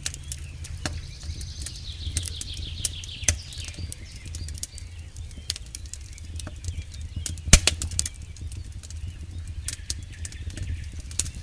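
Campfire burning: wood crackling with frequent small pops over the steady low rumble of the flames, and one sharp, louder pop about seven and a half seconds in.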